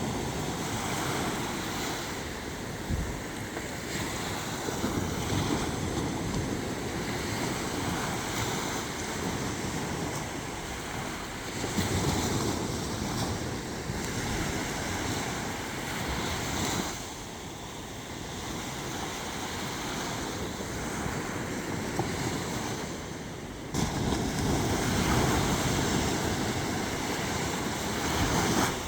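Sea waves washing onto a shore, rising and falling in slow surges, with wind rumbling on the microphone.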